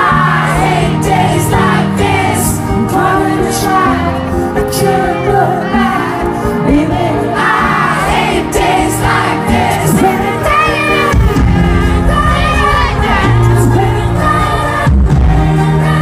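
Live pop band playing with a lead singer's voice over it: steady bass notes and drum hits under the melody.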